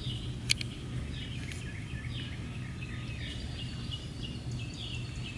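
Small birds chirping: many short, high, falling notes repeating throughout, over a steady low background hum, with one sharp click about half a second in.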